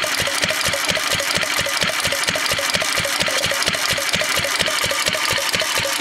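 Massey Harris R 30 4 hp single-cylinder stationary engine running steadily at idle, firing with an even, rapid beat: running well.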